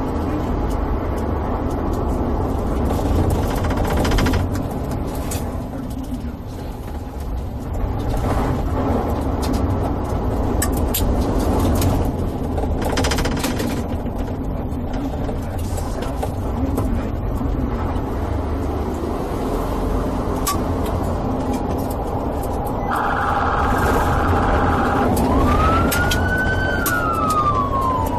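Police car running at speed in a pursuit, with steady heavy engine and road rumble. In the last few seconds a siren comes in, first holding a steady tone, then wailing up and down in pitch.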